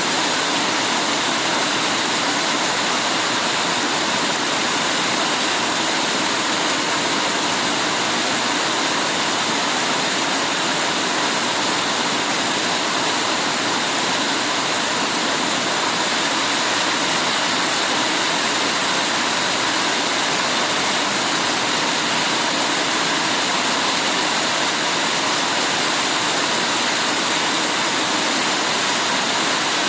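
Heavy rain falling, a steady, even hiss of water with no let-up.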